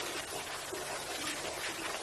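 Steady hiss of running water with no break or change.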